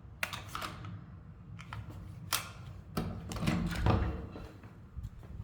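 A few sharp, irregular clicks and knocks, then a busier cluster of knocks and low thuds about three seconds in.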